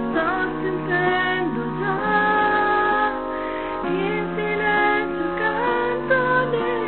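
A woman singing a slow ballad melody over an instrumental backing track of held chords and a bass line.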